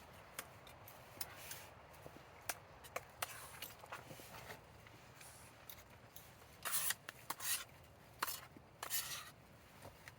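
Faint, scattered clicks and taps with a few short scrapes and rustles of small objects being handled, busier for a few seconds past the middle.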